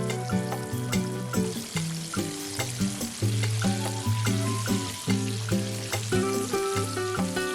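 Pieces of floured chicken frying in hot vegetable oil, a steady sizzle with small crackles, under background music with a steady beat.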